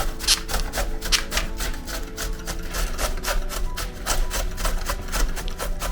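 Fresh ginger root being rubbed back and forth on a grater in quick, even scraping strokes, about five a second.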